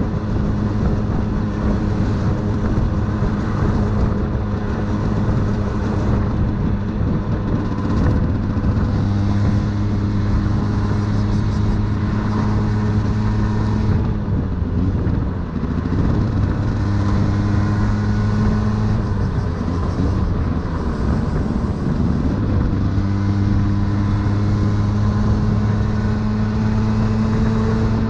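Aprilia 50cc motorcycle engine running at a steady cruising speed, heard from the rider's seat with wind and road rush. Its pitch falls and climbs back twice in the middle as the throttle is eased and opened again.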